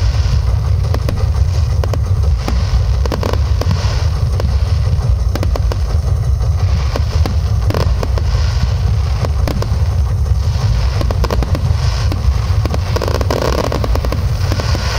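Fireworks display: a dense, continuous barrage of aerial shells bursting, a heavy low rumble of booms with many sharp cracks and repeated stretches of high hissing crackle over it.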